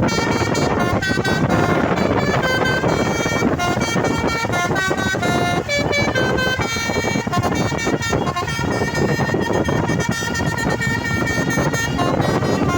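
A Hino 500 truck's basuri musical horn playing a melody, a quick run of held and stepped notes that change pitch every fraction of a second, over a steady rumble.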